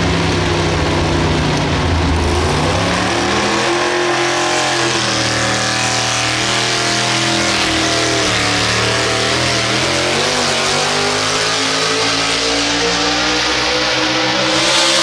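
A competition pulling tractor's engine at high revs during a pull. Its pitch dips, then climbs about two to four seconds in, and after that holds high with small wavers.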